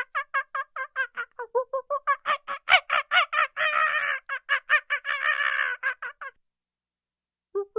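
Domestic fowl calling: a fast, even run of short clucking calls, about five a second, with two longer calls in the middle. The calling stops about six seconds in and starts again just before the end.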